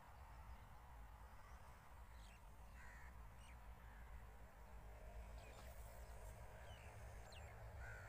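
Quiet open-field ambience: a few short, faint bird calls over a low, steady rumble.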